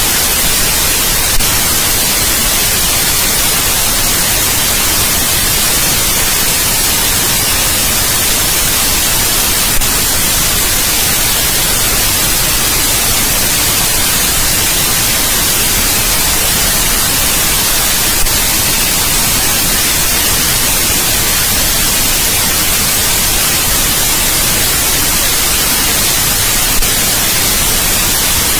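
Steady white noise, an even hiss brightest in the high frequencies, with a faint brief tick about every eight and a half seconds.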